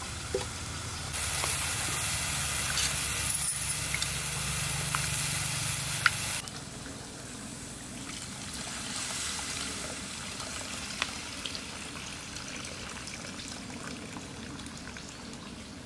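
Steady sizzling hiss of curry cooking in a pan. It grows louder about a second in, then drops abruptly to a quieter hiss after about five seconds.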